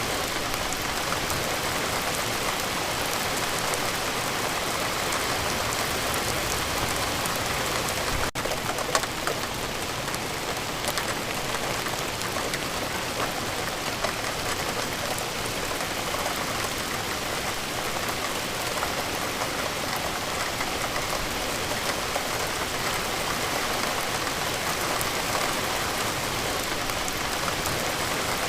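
Steady rain falling, a dense even hiss of drops with scattered individual patters. There is a momentary dropout about eight seconds in.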